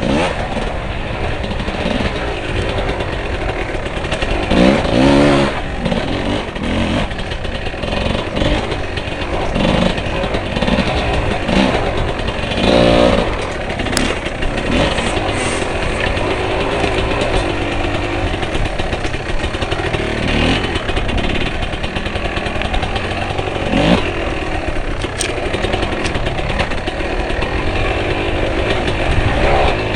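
Dirt bike engine running hard on an off-road climb, revving up and down with several sharp rises in pitch.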